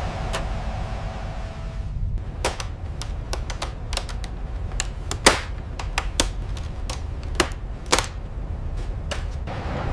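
Irregular sharp clicks and knocks, about a dozen, the loudest a little past the middle and near the end, over a steady low rumble. A steady hum stops about two seconds in.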